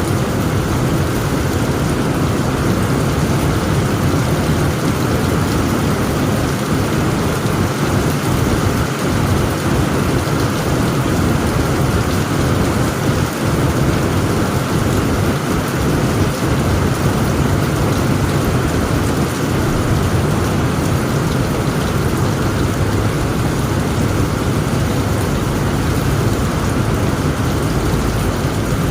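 Heavy rain falling steadily on a tent roof, with a steady low rumble underneath.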